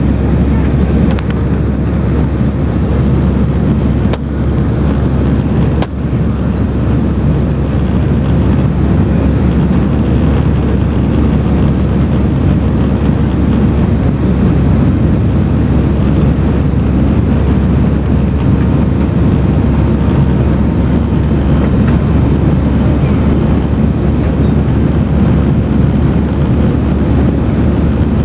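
Steady cabin noise inside an Airbus A319 in flight: jet engines running and air rushing past the fuselage, with a constant low hum. There are two brief dips with small clicks about four and six seconds in.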